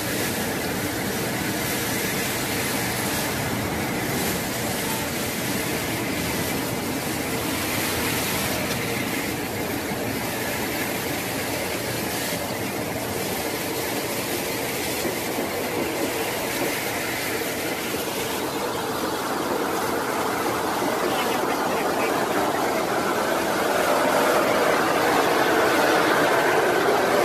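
Indian Railways passenger coaches rolling slowly through an automated train-washing plant: steady noise of the moving train mixed with the rotating brushes and water spray. It grows a little louder near the end.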